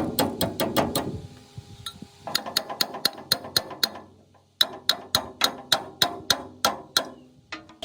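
Hammer striking metal in quick, even runs of about four blows a second, each blow ringing briefly, with two short pauses between the runs.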